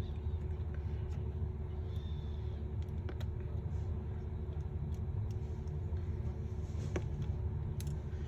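Steady low background rumble with a faint hum, and a few light clicks here and there.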